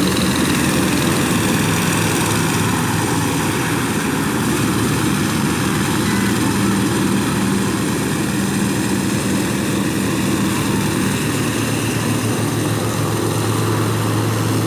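Homemade airboat's small stationary engine, the kind used on compressors and rice threshers, running steadily while it drives an air propeller. Its note shifts slightly near the end.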